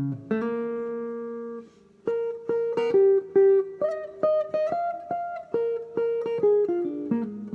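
Guitar playing a blues lick. A chord rings for over a second, then after a short break comes a run of single plucked notes that steps downward near the end.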